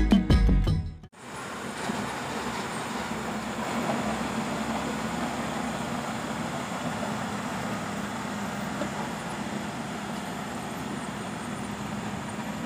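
Music ends about a second in, then a Kubota DC-70 Plus combine harvester runs steadily, a continuous machine noise with a low hum.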